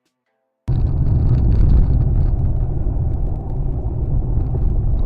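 Steady low rumble of a car driving: engine and road noise inside a moving car picked up by a dashcam. It starts abruptly under a second in, after silence.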